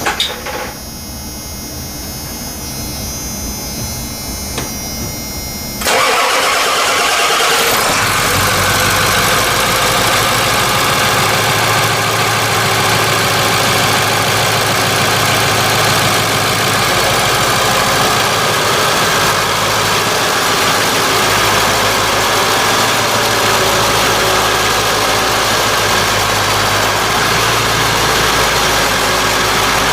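Ford Power Stroke diesel engine cold-starting: a few seconds of steady quieter sound, then the engine catches suddenly about six seconds in and settles into a steady idle.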